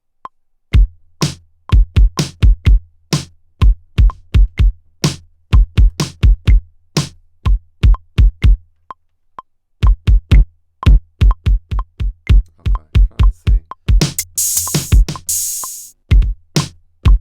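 Electronic drum-machine beat from a Maschine+ groovebox: deep kick drums and sharper snare and hat hits over a low, sustained bass note. It starts about a second in, pauses briefly just before the middle, and has a hissing noise swell near the end.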